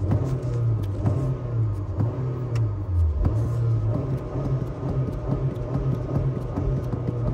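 Honda car engine running, heard from the driver's footwell. Its revs rise and fall a little as the accelerator is pumped, with a short dip and pick-up about three seconds in. Light clicks are scattered throughout.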